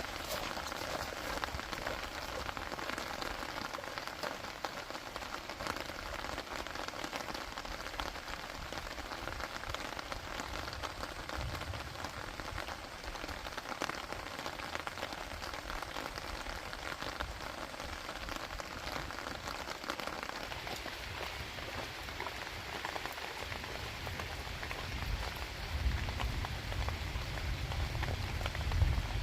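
Steady rain falling, a dense patter of drops. A low rumble builds near the end.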